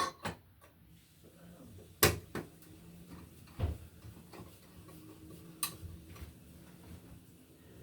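Scattered sharp clicks and knocks of hardware being handled during an electrical box installation, about seven in all, the loudest one about two seconds in.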